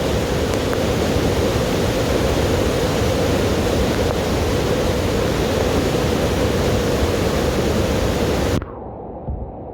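Heavy rain and rushing rainwater: a dense, steady hiss that cuts off suddenly near the end, leaving a much quieter low rumble.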